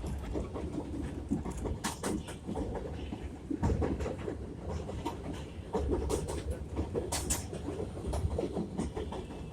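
R62A subway train running along the track: a steady low rumble from the wheels, with irregular sharp clicks and knocks as they pass over rail joints and track work.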